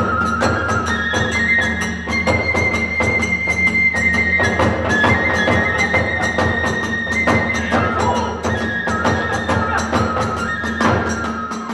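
Kagura ensemble music: a high bamboo flute melody held in long notes over a steady, quick beat of drum and hand-cymbal strikes.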